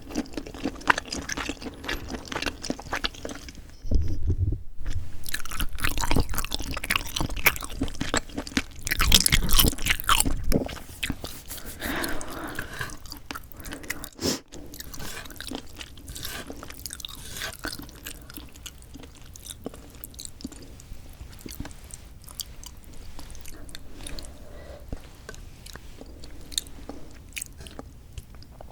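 Close-miked ASMR eating sounds of someone eating spicy mixed noodles with sea snails: wet chewing and biting with many small clicks. There are louder stretches at about four seconds and from about nine to ten seconds in, then steadier, softer chewing.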